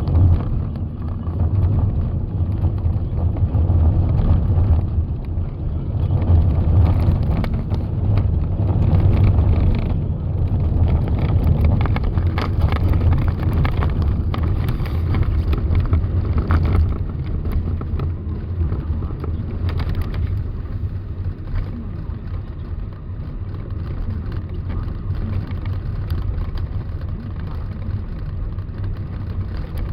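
Steady low rumble of a motor vehicle running, mixed with wind noise on the microphone in a snowstorm.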